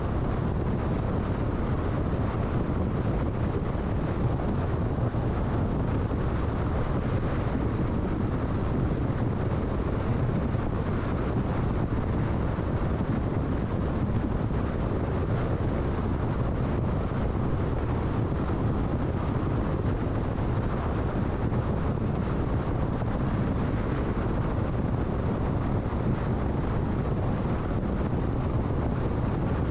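Car driving at freeway speed: a steady rumble of tyre and wind noise that does not change.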